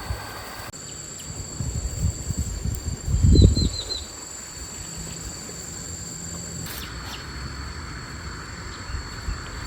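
Insects droning in steady, high-pitched tones, with a quick run of short chirps about three seconds in. Low thumps and rumbles come between about one and a half and four seconds in, loudest about three and a half seconds in.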